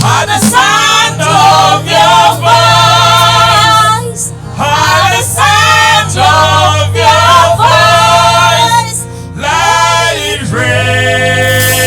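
Gospel praise song sung by a group of female and male voices over instrumental backing, in long held phrases with brief breaks between lines.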